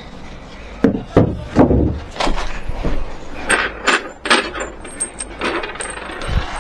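A string of irregular knocks and clatters, hard objects striking one another, some with a brief metallic ring.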